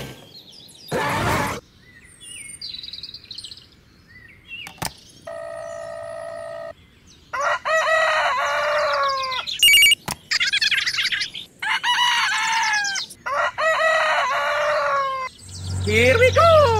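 Chickens clucking and chirping in four bursts of one to two seconds each, laid on as a farmyard sound effect. A short whoosh comes about a second in, and a brief steady tone comes around five seconds in.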